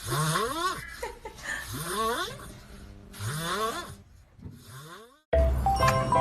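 Snoring, each breath a squeaky sound rising in pitch, repeating about every second and a half. Music cuts in suddenly near the end.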